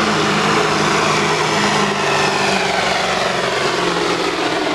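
Diesel pickup truck engine running steadily, with a high whine that falls in pitch about halfway through.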